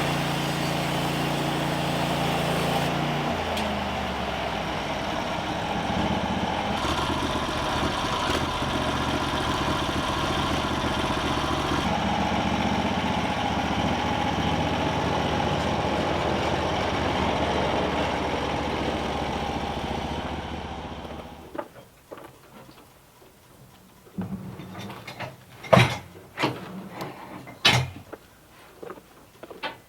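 An engine running steadily, then shutting off about two-thirds of the way through; a few sharp knocks follow.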